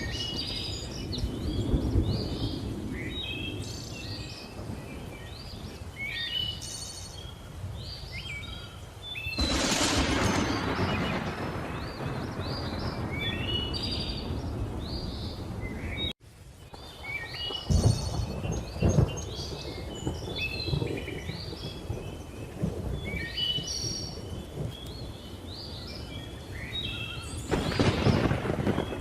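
Thunder rumbling low and continuously under many small birds chirping in quick, high calls. The rumble surges louder about a third of the way in and again near the end. There is a momentary dropout to silence just past halfway.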